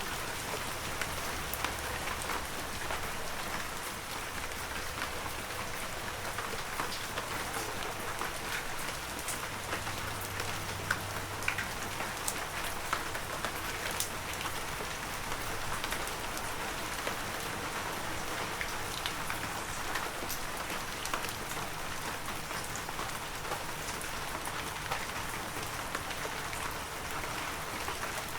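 Heavy rain falling steadily, a dense hiss full of individual drop impacts, with occasional louder single drops.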